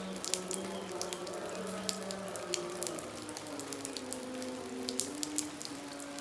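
Heavy rain falling, with many sharp drop impacts scattered throughout over a steady hiss. Beneath it runs soft music of slow, held notes that change pitch every second or two.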